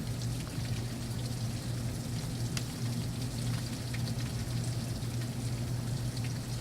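Heavy rain falling during a thunderstorm, a steady hiss with scattered sharp drop ticks, over a steady low hum.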